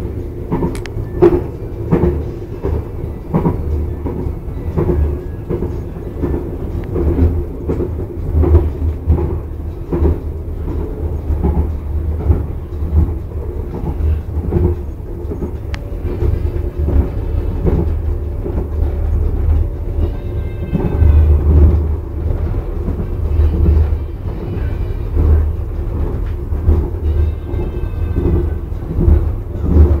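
KLIA Ekspres airport train running at speed, heard from inside the carriage: a steady low rumble with frequent clicks and knocks from wheels on track. Brief high squeals come twice, about two-thirds through and near the end.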